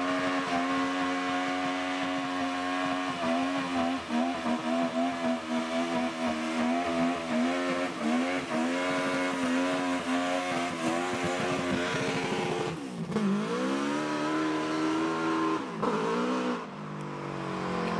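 Classic Ford car engine revved hard and held at high revs, the pitch wavering, then dropping sharply and climbing again twice near the end.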